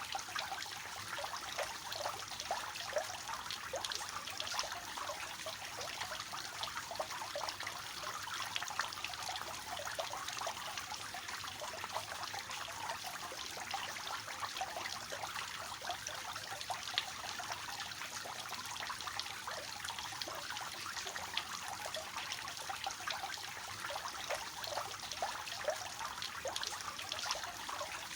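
Water spilling over the tiers of a three-tiered fountain and splashing into the pool below. The splashing and trickling is steady and unbroken.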